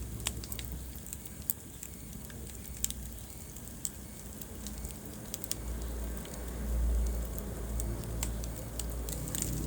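Wood fire in a fireplace crackling, with irregular sharp pops and snaps from the burning logs over a low rumble of the flames that swells about six seconds in.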